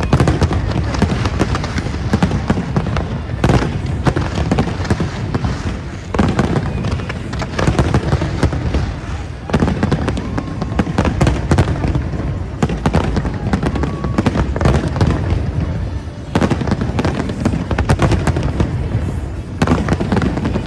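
Fireworks display at full pitch: a dense, continuous run of bangs and crackling, with louder surges every few seconds.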